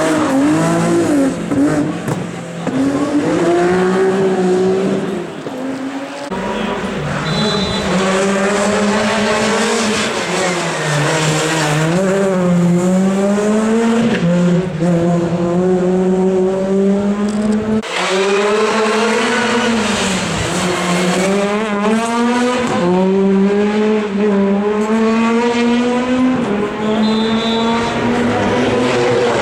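Rally car engines driven hard, rising in pitch through the gears and dropping back when the driver lifts off, over and over. The engine sound changes abruptly about six and eighteen seconds in.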